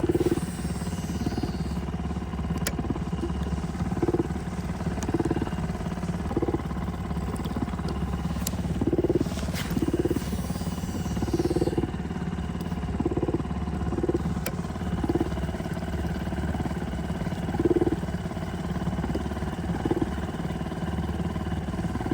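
Small two-horsepower outboard motor on a mini boat running steadily, with short regular thuds about once a second.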